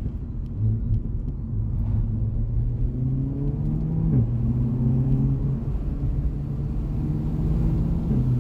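Renault Mégane 4 RS's turbocharged 1.8-litre four-cylinder heard from inside the cabin while driving at moderate speed, over steady road rumble. The engine note climbs gently about three seconds in, dips sharply for a moment about four seconds in, then holds steady.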